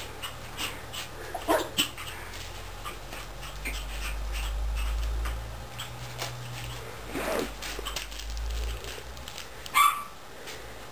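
Shichon puppies playing, giving a few short yips and whines, the loudest one near the end, among light tapping and scuffling.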